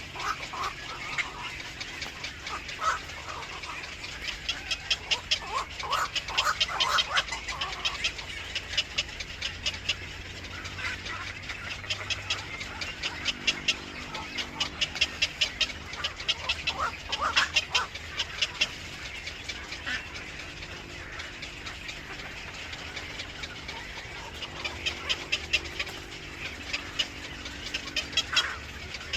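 Birds calling: repeated trains of rapid, high chattering chips, with short lower calls now and then.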